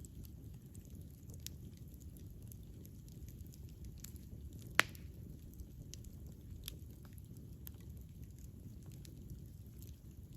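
Wood fire burning: a steady low rumble of the flames with scattered small crackles, and one loud sharp pop about halfway through.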